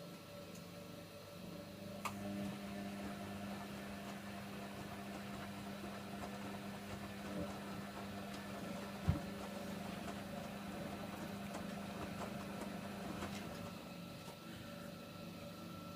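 Hoover Nextra HNWL7146 washer dryer's drum motor running with a steady hum. It starts with a click about two seconds in and stops after about twelve seconds, with a single thump about nine seconds in.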